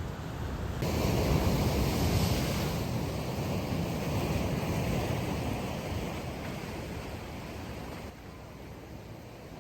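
Sea surf breaking on a sandy beach: a wave comes in loudly about a second in, and its rushing wash slowly fades away.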